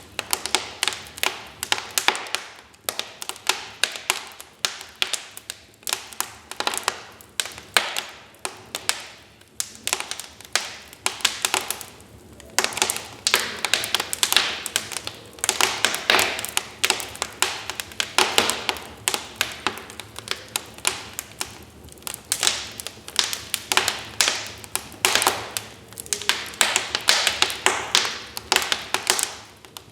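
Wood fire in a fireplace crackling, with dense, irregular sharp pops and snaps over a faint hiss.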